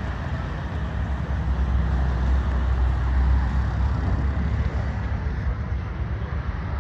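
Low, steady rumble of motor traffic, swelling about two seconds in and easing off again after about four seconds, like a vehicle passing.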